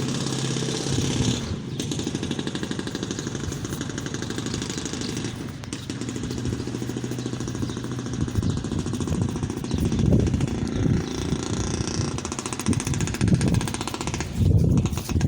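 An engine running steadily nearby, a low hum with a rapid pulse, growing louder and more uneven in the last few seconds.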